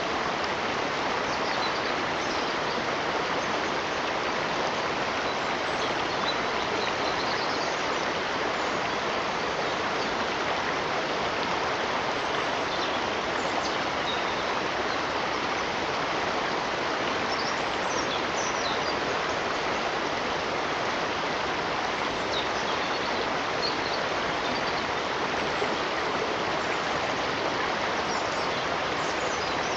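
Steady rush of a flowing stream, an unbroken wash of running water at an even level, with faint short bird chirps now and then above it.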